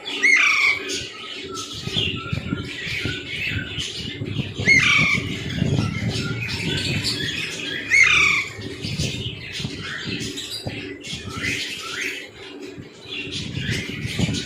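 Indian ringneck parrot giving repeated loud squawks, each sweeping down in pitch; the loudest come near the start, about five seconds in and about eight seconds in.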